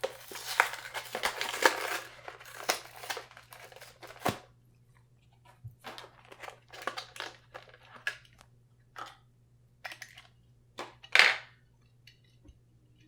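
Die-cast toy car packaging of cardboard and plastic being torn and crinkled open by hand. The crackling is dense for the first two seconds, then breaks into scattered rustles and clicks, with one loud sharp crackle about eleven seconds in.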